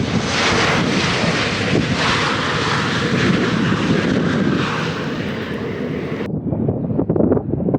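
Airliner's engines running loud as it passes close by, a steady rush of noise that cuts off abruptly about six seconds in, leaving gusty wind on the microphone.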